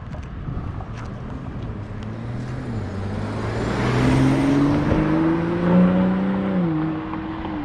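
Car engine accelerating, its pitch rising steadily for a few seconds and then dropping near the end, as at a gear change or lifting off, over steady road noise.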